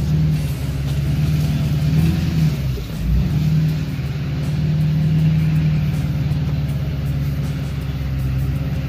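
Vehicle engine running as it drives slowly along a dirt track, heard from inside the cab, with a brief dip in engine note about three seconds in.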